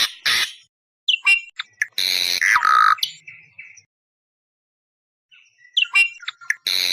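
Awar-awar bird calls from a lure recording: bursts of shrill chirps and harsh, squawking screeches, one sliding down in pitch, broken by about a second and a half of dead silence in the middle before the calls start again.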